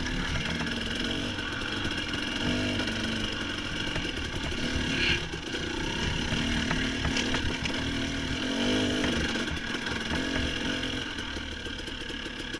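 Dirt bike engine running off-road, the revs rising and falling as the bike is ridden along the trail.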